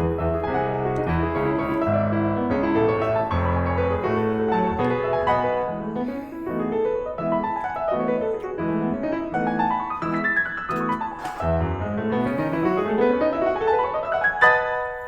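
Background piano music: quick note runs rising and falling, ending in a long climbing run near the end.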